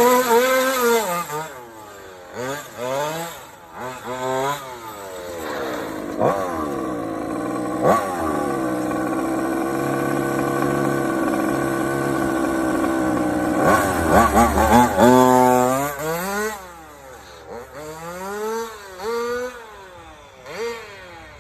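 Small two-stroke engine of a homemade ride-on toy car being revved with a motorcycle-like two-stroke note. It blips up and down several times, climbs and holds high revs for several seconds in the middle, peaks, then drops back into short blips near the end.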